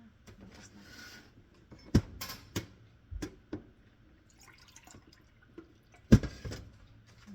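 A series of sharp knocks and clinks, a cluster of them near the middle and one louder hit about six seconds in.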